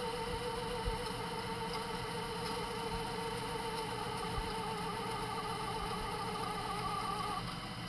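VCR's tape transport whirring as it fast-forwards a VHS cassette, a wavering whine with a second higher tone joining about halfway, stopping suddenly near the end.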